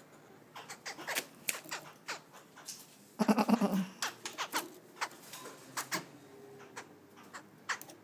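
Caged songbird calling: a run of short, sharp calls, with one louder, harsh call lasting under a second about three seconds in.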